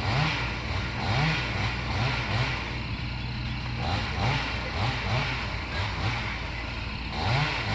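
An engine running steadily, revved up briefly again and again, about once a second.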